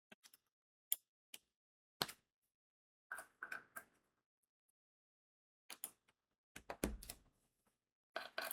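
Crystal drills being placed on a diamond painting: irregular small sharp clicks and light taps, some single and some in quick little clusters, with a dull low bump about seven seconds in.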